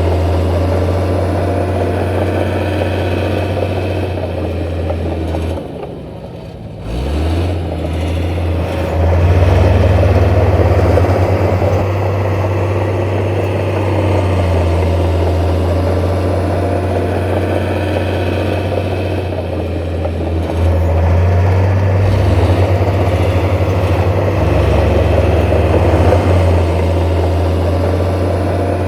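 Heavy diesel engine of earthmoving machinery running steadily under load. About six seconds in it eases off, then revs back up with a rising pitch and carries on.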